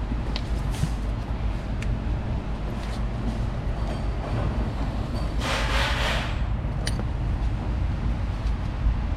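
Hand work on spark plug wires: a few small clicks and a brief rustle about five and a half seconds in, over a steady low rumble.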